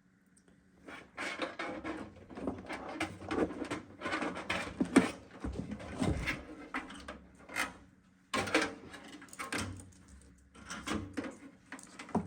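Cables and plastic parts being handled inside a computer case: a run of rustling, clicks and small knocks with short pauses.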